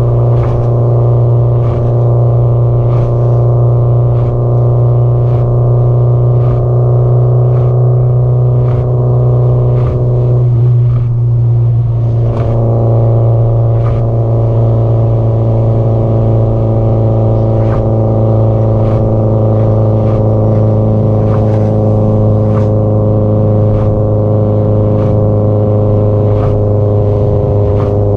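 Subaru Impreza WRX STI (GDB-E) turbocharged flat-four and aftermarket muffler droning at an even cruise on the highway. About eleven seconds in the engine note briefly breaks up, and after that its pitch falls slowly.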